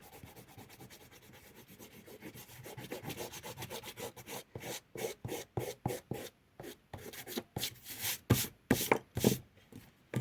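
Eraser rubbing back and forth on paper, erasing pencil lines: quick faint strokes at first, turning into louder, separate strokes about three a second in the second half.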